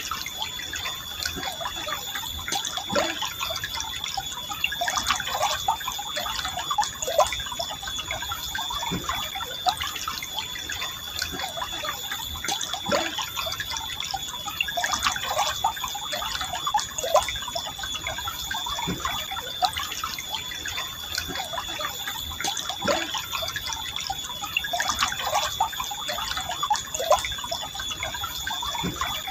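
River water flowing calmly, gurgling steadily with many small splashes and drips.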